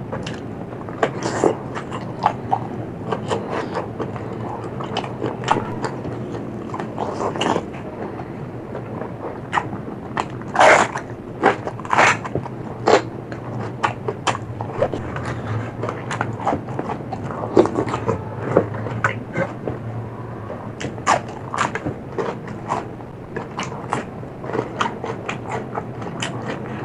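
Close-miked chewing and biting of food, a long irregular run of short crunching and smacking clicks, over a low steady hum.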